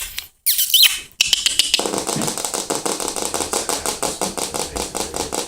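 A short high squeak near the start, then a fast, steady run of light clicks and taps, several a second, which continues after it.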